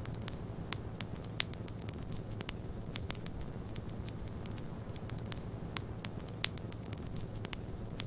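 Wood fire crackling with frequent small clicks and a few louder pops, over a steady low rush of snowstorm wind.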